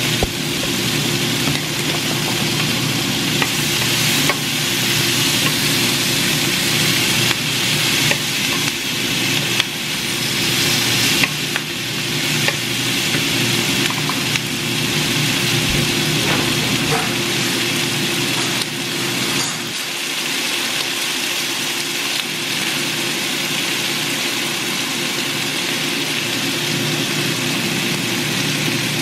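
Chicken, bell peppers and onions sizzling steadily in a hot frying pan, with a few light knocks of a utensil against the pan and a steady low hum underneath.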